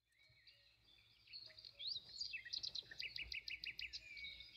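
Faint birdsong: several small birds chirping and whistling, with a quick run of repeated notes, about six a second, in the middle.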